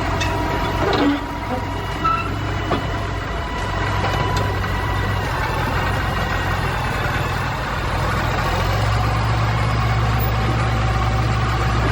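Heavy machinery engine running steadily with a low hum that grows a little louder near the end, with a few short knocks in the first few seconds.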